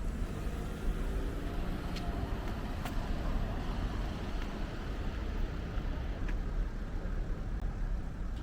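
Road traffic: a car's engine running close by over a steady low rumble, its pitch sliding in the first few seconds, with a few light clicks.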